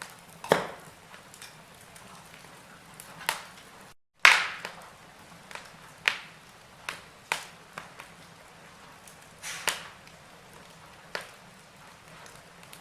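Wood logs burning in a fireplace, crackling with irregular sharp pops and snaps over a faint steady hiss; the loudest pop comes about four seconds in, just after a split-second dropout in the sound.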